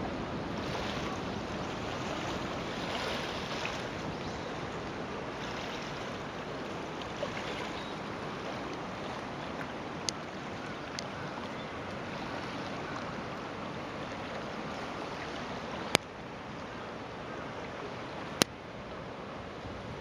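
Steady rushing of a swollen river in flood after a typhoon. A few sharp clicks come in the second half.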